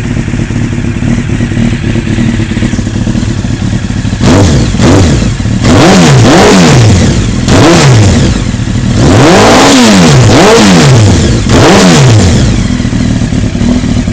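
Honda CBR900RR Fireblade's inline-four engine heard through its exhaust, idling, then revved in a series of about seven or eight quick throttle blips that rise and fall sharply, before settling back to idle near the end.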